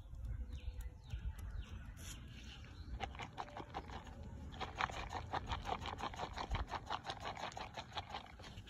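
Outdoor bird calls: a few short falling chirps, then a fast, dense run of sharp chirps for several seconds near the middle and end, over a low wind rumble on the microphone.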